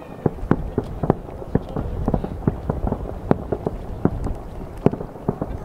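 Fireworks bursting: a rapid, irregular string of bangs and crackles, several a second, over a low rumble.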